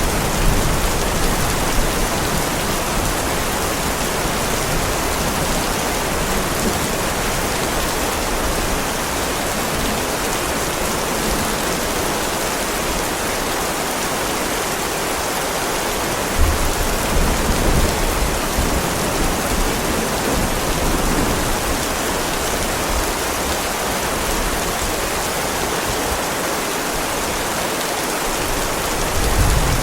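Heavy rain falling steadily on a driveway, an even hiss, with brief low rumbles about halfway through and again near the end.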